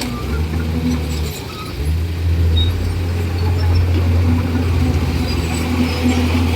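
Komatsu D41E bulldozer's diesel engine running steadily, dipping briefly about a second and a half in before picking up again.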